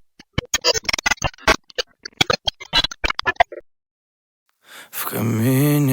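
A quick, irregular run of sharp clicks and taps for about three and a half seconds, then a short pause. Near the end a pop song starts, with a voice singing over backing music.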